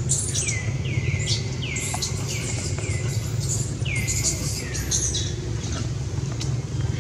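A bird calling in a rapid series of short, downward-sweeping chirps for about five seconds, then stopping, over a steady low rumble.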